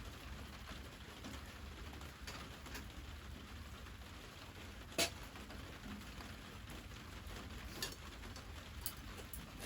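Wood fire crackling: a steady low hiss with a few sharp, scattered pops, the loudest about halfway through.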